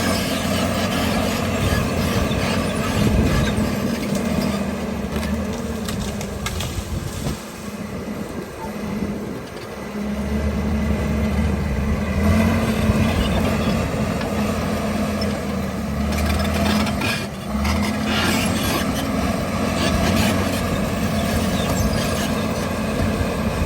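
John Deere bulldozer's diesel engine running steadily under work, with a quieter spell about a third of the way in and a brief dip about two-thirds of the way through.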